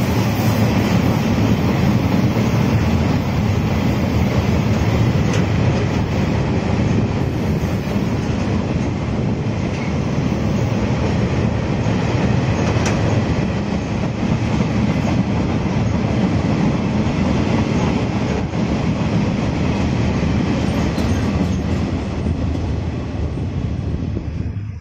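Freight train's open wagons rolling past on a curve: a steady loud rumble of wheels on rails with occasional sharp clanks, dying away at the very end as the last wagon clears.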